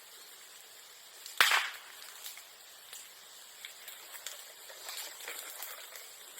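Bamboo bursting in a bonfire: one sharp pop about a second and a half in, with light crackling of burning bamboo and bamboo grass around it.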